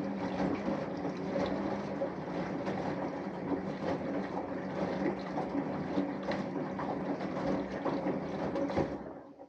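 Samsung Eco Bubble washing machine's inverter motor turning the drum in one burst, with a steady hum and water and laundry sloshing and knocking inside. It stops about nine seconds in, typical of the on-off drum rotation of a wash or rinse phase.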